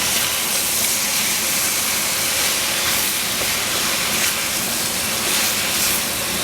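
Eggplant frying in hot oil: a loud, steady sizzling hiss.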